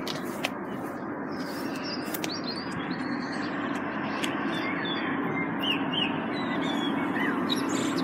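Small birds chirping in short, repeated calls over a steady background rumble that grows slowly louder.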